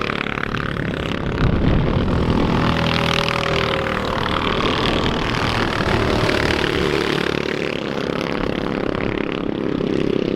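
Racing engines running and revving, mixed with background music.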